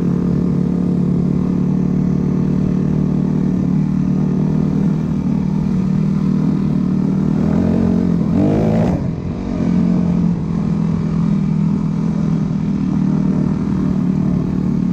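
Dirt bike engine running steadily close by, with one quick rev that rises and falls a little past halfway.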